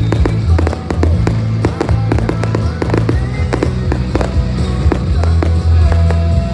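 Fireworks display finale: many rapid bangs and crackles of bursting shells, over loud music with a strong bass line.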